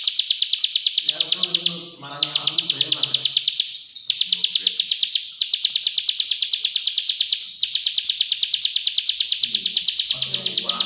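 Plain prinia (prenjak sawah) giving its rapid, dry clicking call, about six clicks a second, in long runs broken by short pauses.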